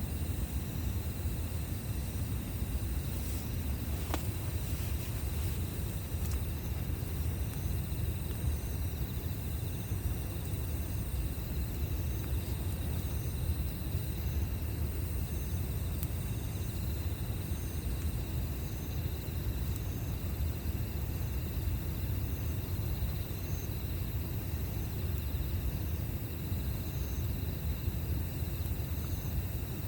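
Outdoor campfire ambience: a steady low rumble, with insects calling in long repeated high trills and short regular chirps, and a faint crack from the fire now and then.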